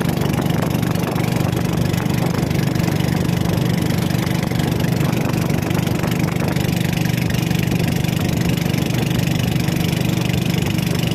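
Small fishing boat's engine running steadily with an even drone, under a constant hiss of wind.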